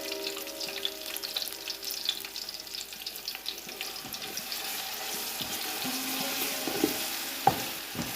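Onions, spices and green chillies frying in hot oil in a pan, crackling and sizzling as they are stirred, with a couple of sharp knocks near the end.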